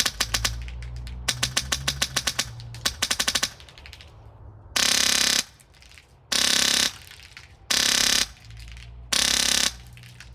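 HPA airsoft rifle driven by a Polar Star Fusion engine firing full-auto bursts: rapid, distinct shots in short bursts for the first three and a half seconds, then four bursts of about half a second each, fired so fast that the shots run together.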